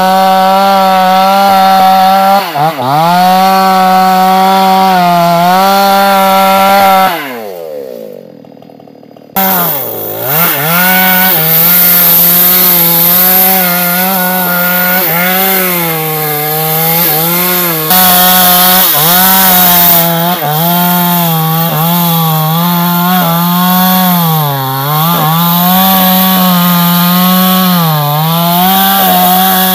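New West chainsaw running at high revs while cutting a large sengon tree, its engine note sagging again and again as the chain bogs under load. About seven seconds in the revs fall away and it goes quieter for a couple of seconds, then it comes back suddenly at full throttle.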